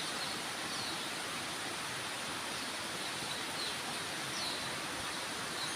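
Heavy rain falling steadily, an even hiss. A few faint, short, high chirps come through it now and then.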